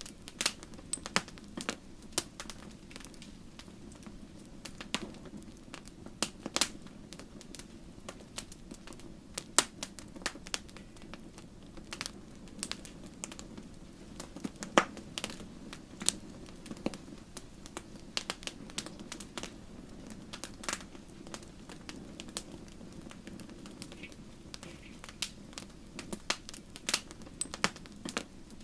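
Wood fire burning in a fireplace: irregular sharp crackles and pops from the burning logs over a steady low rush of the flames.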